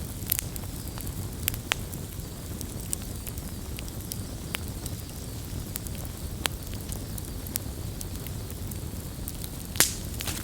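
Wood campfire burning with a steady low rumble, crackling with scattered sharp pops from the burning wood. The loudest pop comes near the end.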